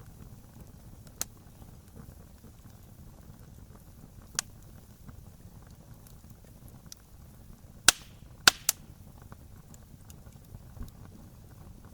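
Wood fire burning with a low steady background noise and occasional sharp pops from the burning wood. A few single pops are spaced seconds apart, and the loudest come as a quick cluster of three about eight seconds in.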